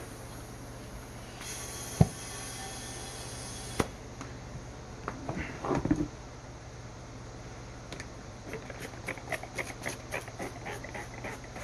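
Hands-on work on a lawn mower wheel: two sharp knocks, a hiss of about two seconds, a brief clatter, then a run of quick light clicks, over a steady low hum.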